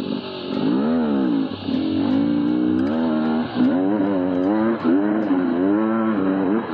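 Beta 300RR's 300 cc single-cylinder two-stroke engine revving up and down again and again under throttle, the pitch rising and falling about once a second.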